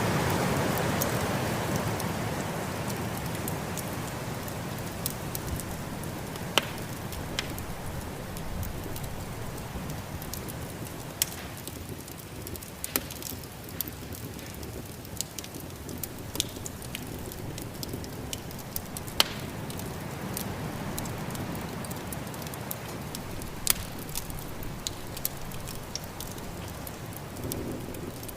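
Wood fire crackling, with sharp pops scattered through, over the steady rush of snowstorm wind that is loudest at the start and eases off over the first few seconds.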